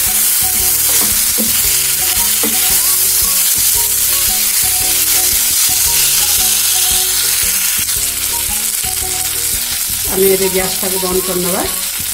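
Fried brinjal pieces sizzling in hot oil in a non-stick pan while a wooden spatula stirs them through the spice tempering, a steady hiss throughout.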